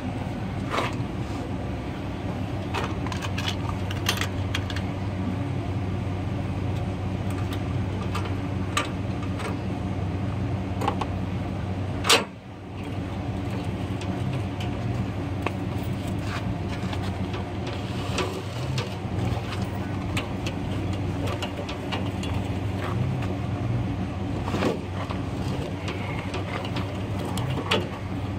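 Motor vehicle engine idling steadily, with scattered clicks and knocks of tools and gear being handled and one sharp knock about twelve seconds in.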